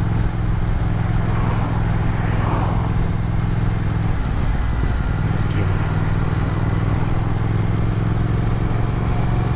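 Motorcycle engine running steadily under way, heard from the bike-mounted camera over a haze of road noise; the engine note dips briefly about four seconds in, then steadies again.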